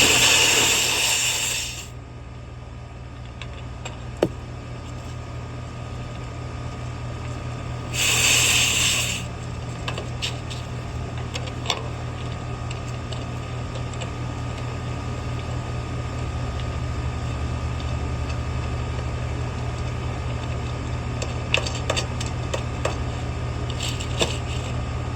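Tools and parts being handled while a condenser's wiring is reassembled: scattered small clicks and knocks, two short loud bursts of hiss, one at the start and one about eight seconds in, all over a steady low hum.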